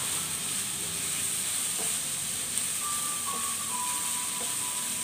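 Ground pork and diced tomato sizzling in a frying pan as a wooden spatula stirs them: a steady frying hiss. Background music with a few held notes plays in the middle.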